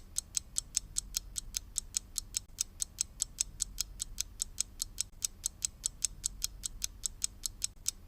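Rapid, evenly spaced clock ticking, about six sharp ticks a second, used as a passage-of-time effect.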